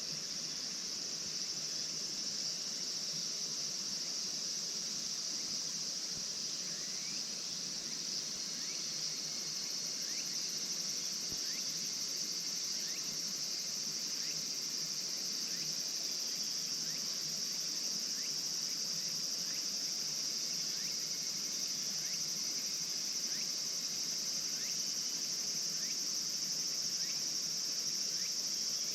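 Steady chorus of crickets and other night insects: a continuous high, shrill trill that does not let up. Fainter short rising chirps repeat about once a second through most of it.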